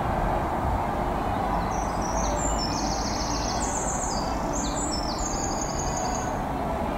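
InterCity 125 diesel high-speed train approaching, a steady even rumble, while a songbird sings a run of rapid high trills at changing pitches from about two seconds in until near the end.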